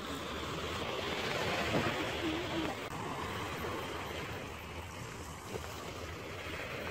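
Sea waves washing on the shore with wind on the microphone: a steady rushing noise that swells slightly about two seconds in.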